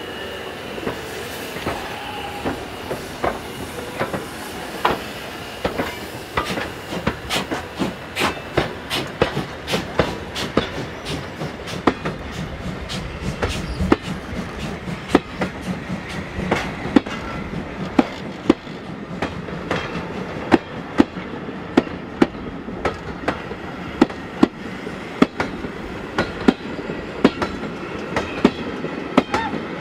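Steam-hauled passenger train passing close by, class 52 locomotive 52 3879 and then its carriages, with a steady rolling rumble. Its wheels click sharply over the rail joints in a clickety-clack that becomes faster and denser after the first few seconds, as the carriages roll past.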